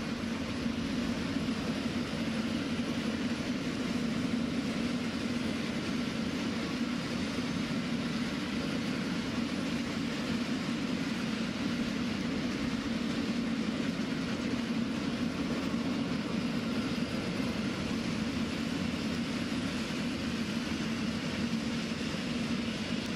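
A train running past on the line, a steady, unbroken noise of wagons on the rails with a constant low hum throughout.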